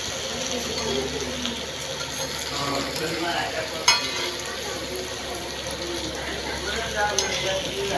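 Potato pieces frying in oil in a flat pan, sizzling, while a metal spatula stirs and scrapes them, with a sharp knock of the spatula on the pan about four seconds in and lighter clicks near the end.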